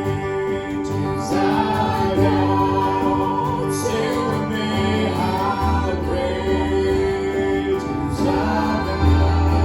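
Worship music: singers in a choir-like blend over sustained chords and a steady bass.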